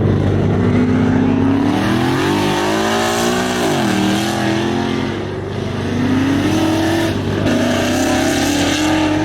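V8 car engine accelerating hard through the gears: its pitch climbs, drops at an upshift a little under 4 s in, then climbs again through two more gears, over a steady low drone.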